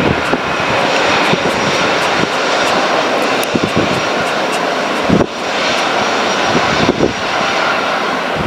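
Jet engines of a Boeing 737-800 running loud and steady, a dense rush with a thin high whine held through it.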